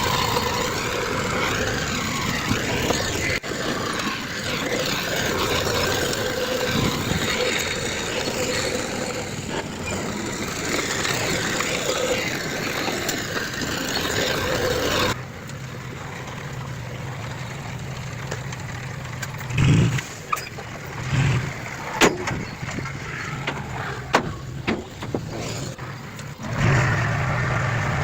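Heavy diesel earthmoving machinery running: a loud, steady engine-and-track noise. About halfway it cuts abruptly to a quieter low engine hum with several sharp metal knocks and clanks, then the loud machinery noise returns near the end.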